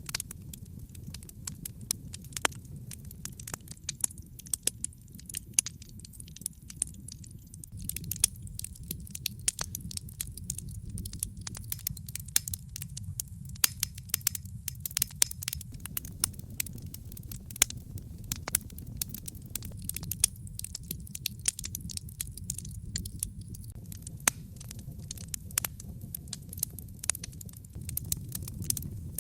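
Wood fire crackling in a fireplace: a steady low rumble of burning under many sharp, irregular pops and snaps.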